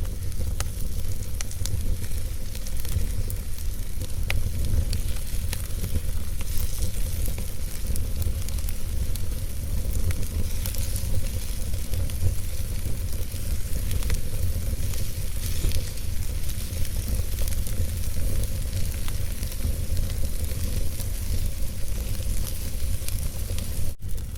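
Wood fire burning in a fireplace: scattered sharp crackles and pops over a steady low rumble and hiss. The sound drops out for a split second near the end.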